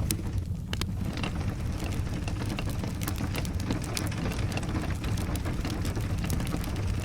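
Fireplace-and-rain ambience: a steady low rumble of rain with frequent sharp crackles and ticks scattered throughout.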